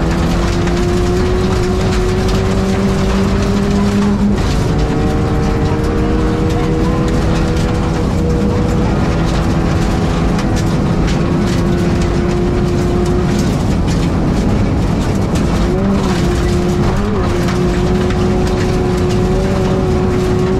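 Rally car engine heard from inside the cabin, running hard at speed. Its pitch climbs slowly and steps about four and eight seconds in, with a couple of quick wobbles near the end, over a steady roar of tyre and road noise.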